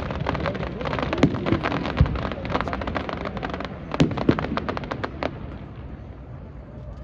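Fireworks bursting: a dense crackle of many small reports, with heavy booms about two and four seconds in. The crackle thins out after about five seconds.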